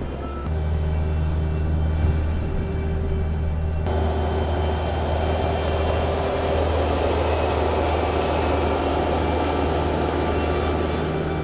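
Heavy machine engine running steadily, with a louder rushing noise joining about four seconds in.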